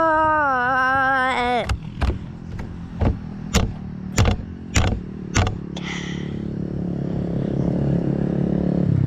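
A drawn-out wavering call in the first second and a half, then a run of sharp knocks roughly half a second apart. From about six seconds in, a small four-stroke engine of a quad or pit bike runs and grows steadily louder.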